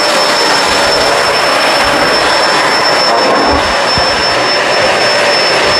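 Kenmore Crossover Ultra upright vacuum running at full power, a steady motor rush with a constant high whine, as it is pushed over a rug. A few low bumps from the machine come about two-thirds of the way through.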